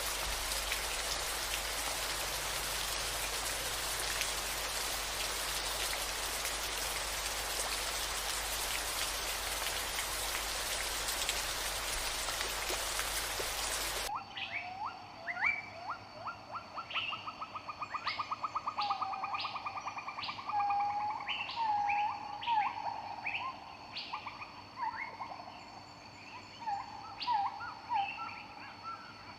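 Steady hiss of rain that cuts off suddenly about halfway through, giving way to songbirds singing: clear whistled notes, a rapid trill and short sharp chirps.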